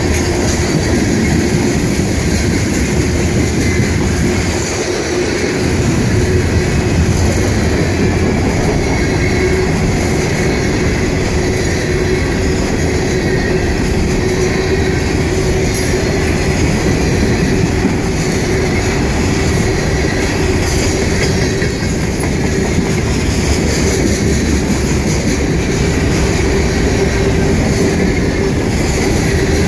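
CSX freight train's tank cars and covered hopper cars rolling past at speed on the near track: a loud, steady rumble and rattle of steel wheels on the rails, with a steady hum underneath.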